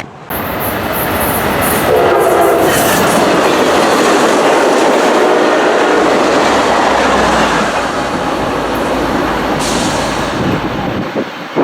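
A train passing at close range: a loud, steady rumble of wheels on rails that starts suddenly and drops away near the end, with a brief pitched tone over it about two seconds in.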